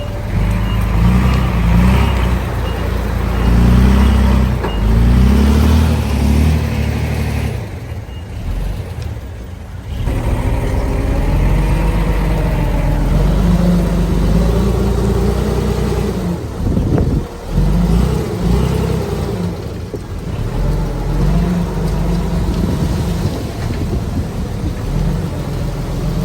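Diesel engines of a dump truck and bulldozer working, their pitch rising and falling with load. A reversing beeper pips through the first few seconds, and the engine sound drops away for a couple of seconds about eight seconds in.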